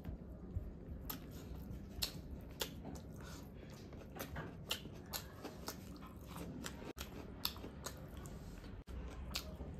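Close-miked eating sounds: a person chewing a mouthful of chilli chicken and fried rice, with frequent sharp, irregular wet clicks and smacks from the mouth.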